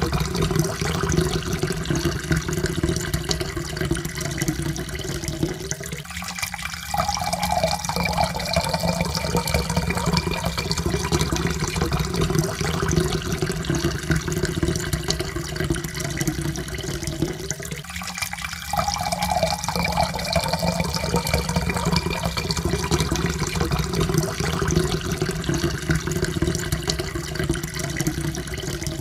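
Water pouring steadily into a cup, with a tone that slowly rises in pitch as the cup fills. The pour breaks off briefly twice, about 6 and 18 seconds in, and each time the rising tone starts again from low.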